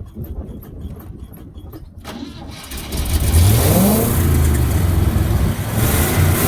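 The 1970 GMC pickup's engine, just fitted with a new mechanical fuel pump, starts about two to three seconds in. It revs up briefly and then keeps running steadily.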